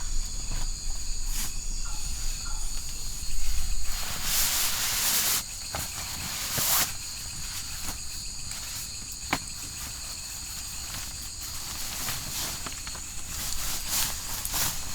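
Crickets and other night insects chirring steadily in a high pitch, with a couple of loud rustles about four and six and a half seconds in.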